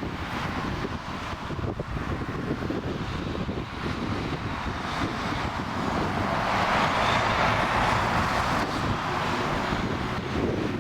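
Jet airliner's engines passing after take-off, the roar swelling to a peak about seven seconds in and then easing off. Strong wind buffets the microphone throughout.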